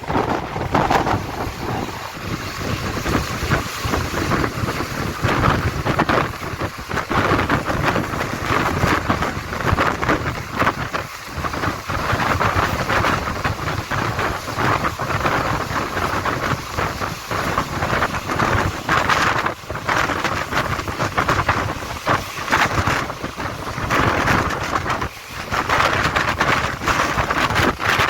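Indian Railways train running on the track: a steady loud rumble with dense, irregular clatter, and wind buffeting the microphone.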